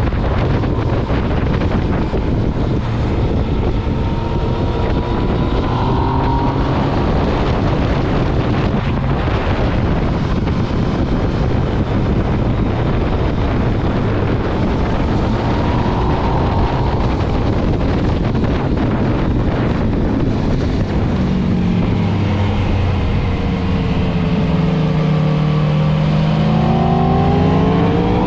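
Sport motorcycle engine under way, its pitch rising and falling with the throttle under heavy wind noise. In the last few seconds it pulls hard, rising in pitch again and again.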